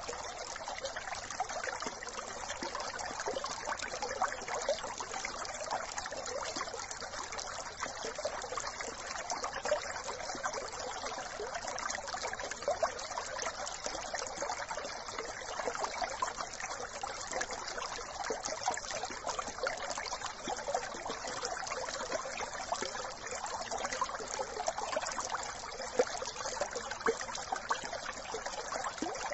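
Brook water running steadily over stones, a continuous trickling and babbling with many small splashes.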